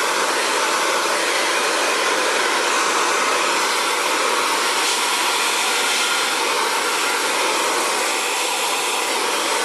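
Xtava Allure 2200-watt ionic ceramic hair dryer running steadily at high power, blowing out curly hair.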